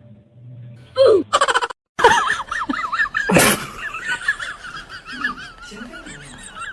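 Many small birds peeping at once: a dense chorus of high, quickly wavering cheeps that starts after a brief clatter and a short break. A single loud noisy burst cuts through the calls near the middle.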